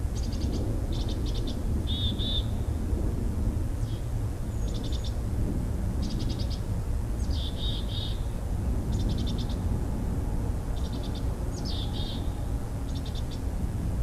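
A small bird repeating short, rapid trilled calls about once a second, some opening with a quick downward slur, over a steady low rumble.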